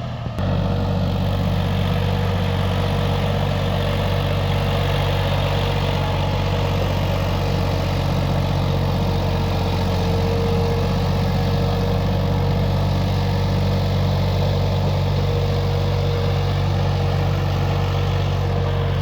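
New Holland 3230 NX tractor's three-cylinder diesel engine running steadily at a constant speed, coming up slightly in level about half a second in.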